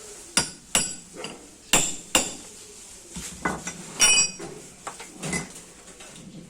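Metal tools and parts being knocked together during repair of a sugarcane press: a series of sharp metallic taps and knocks, with one ringing metal clang about four seconds in.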